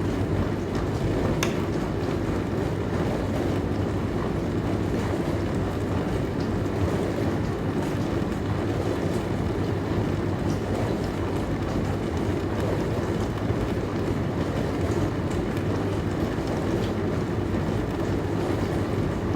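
Dishwasher running: a steady rushing wash of water over a low, even hum, with one faint click about a second and a half in.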